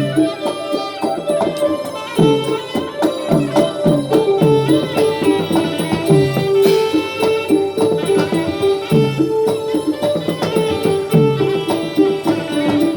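Southern Thai Manora (Nora) traditional music: a melodic line of held and stepping notes over busy, steady percussion strikes.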